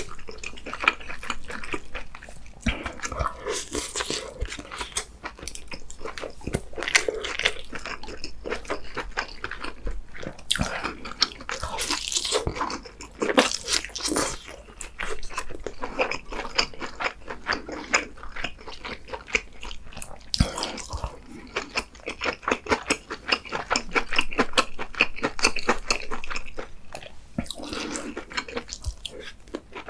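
Close-miked chewing and biting as a person eats a Korean home-style meal with chopsticks: a pan-fried zucchini slice, rice and stew. Dense, irregular wet mouth sounds and crunches, with no pauses.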